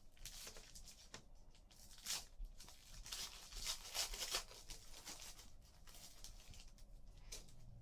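Foil wrapper of a trading card pack being torn open, with crinkling rustles and cards being handled in between: a few short rips, the loudest about two seconds in and again around three to four seconds in.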